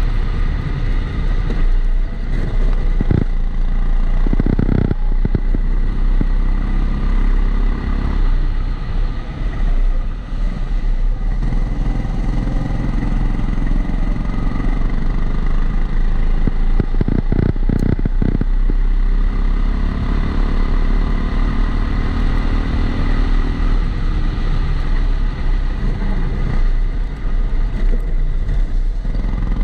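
Kombikart Eco rental kart's engine heard onboard, its pitch rising and falling as the kart accelerates and lifts through corners, with a few sharp knocks. Over it runs a steady high tone, a recurring extra noise that the uploader puts down to the camera being in a housing.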